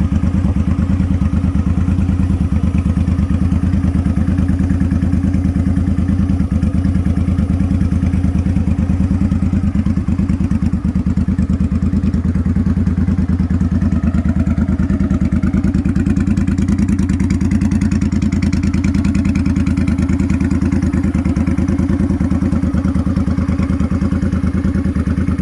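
Motorcycle engine running steadily at a constant speed, with no revving.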